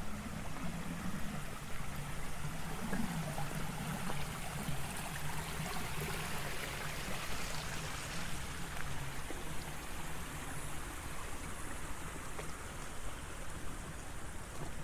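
Water running steadily in a rice-terrace irrigation channel, with the low hum of a vehicle engine fading out about nine seconds in.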